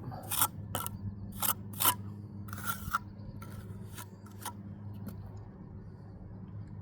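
Steel trowel scraping and tapping mortar into a brick joint: about six sharp scrapes in the first three seconds, then lighter scraping and a few small clicks. A faint steady hum runs underneath.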